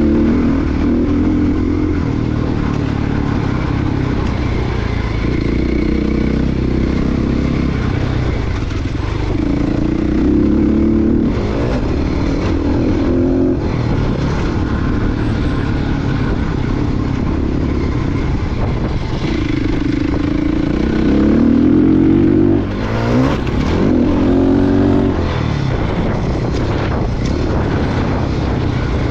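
Motocross dirt bike engine running hard under throttle, its pitch climbing and falling again and again as the rider opens and closes the throttle and shifts.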